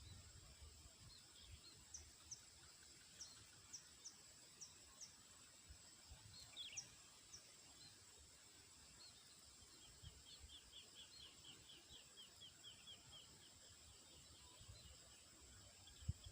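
Faint high chirps of small birds: scattered single notes, then a quick run of about a dozen notes, over a steady thin high-pitched whine. A soft low thump sounds near the end.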